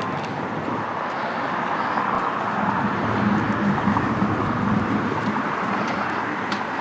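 A car's engine and tyres running close by, a steady rumble that grows a little louder through the middle and then eases.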